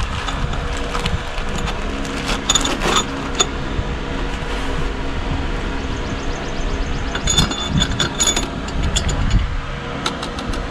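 Steel head bolts clinking against each other and against the cylinder head as they are handled and dropped into their holes, in two bursts of ringing clinks a few seconds apart. A steady mechanical hum runs underneath.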